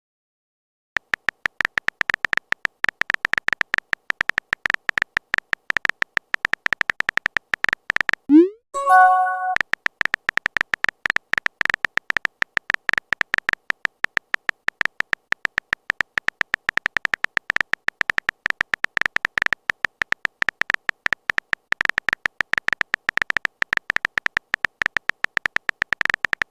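Phone keyboard typing sound effect: a rapid, continuous stream of short ticks as a chat message is typed out. About eight seconds in it is broken by a message alert, a quick rising blip followed by a short chord.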